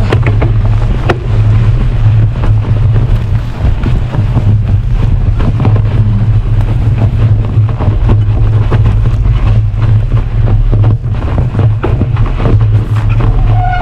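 Wind buffeting the microphone as a bicycle is ridden, a loud steady low rumble, with scattered small clicks and crackles throughout.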